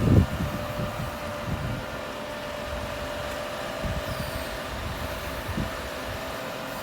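A machine engine running steadily, a constant hum with a held whine and a few low thuds.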